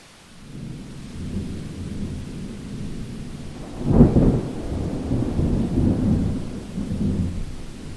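A thunderclap rolling over steady rain: a low rumble builds about half a second in, breaks into a loud crack about halfway through, then rolls on and eases toward the end.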